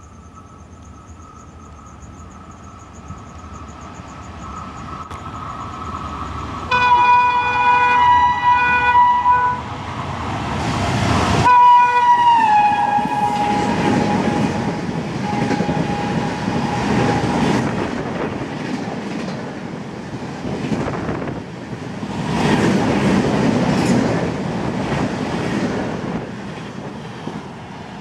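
Express train of LHB coaches behind an electric locomotive rushing through at high speed: its horn sounds on the approach, then blasts again as the locomotive passes and drops in pitch, followed by the steady rush and rumble of the coaches going by, easing off near the end.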